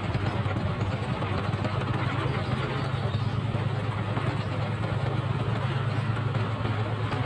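Motorcycle engine running at a steady pace while riding, a constant low hum under an even rushing noise.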